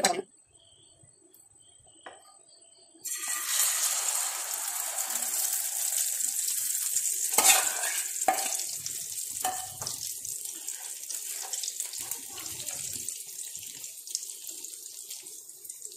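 Chopped okra dropped into hot oil in a frying pan. It sets off a sudden loud sizzle about three seconds in, which slowly dies down, with a few knocks of a plastic spoon against the pan as it is stirred.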